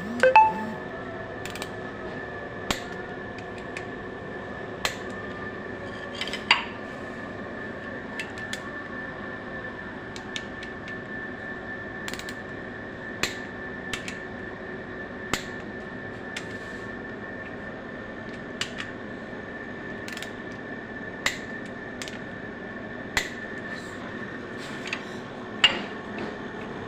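Scattered metallic clinks and taps of hand tools and engine parts being handled during work on an engine, irregular and a second or two apart, over a steady workshop hum.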